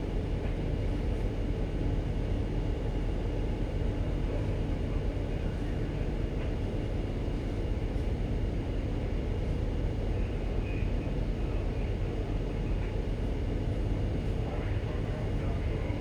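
Steady low rumble of a ship's engine and machinery, even in level throughout.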